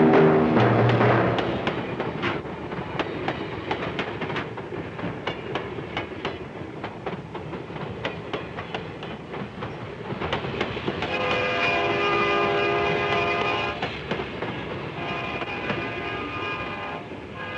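A train rolling by, its wheels clicking over rail joints, with a locomotive air horn sounding two blasts, a longer one about 11 seconds in and a shorter one near the end. A brief loud low chord sounds at the very start.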